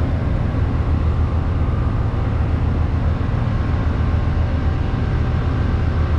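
Diesel locomotive of a stopped passenger train idling with a steady low rumble.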